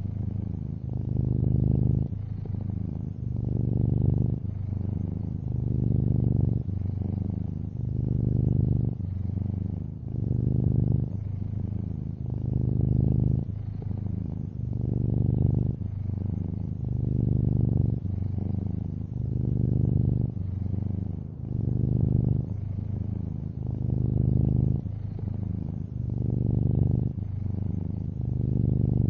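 Long-haired orange tabby cat purring close up, a low rumble that swells and fades about once every two seconds with each breath in and out.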